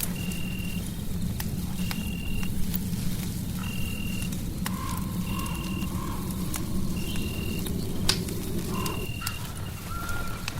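Fireplace crackling with sharp pops over a steady low rumble, while a short, high, even chirp repeats about once every 1.2 seconds. A faint low tone slowly rises from about four to nine seconds in.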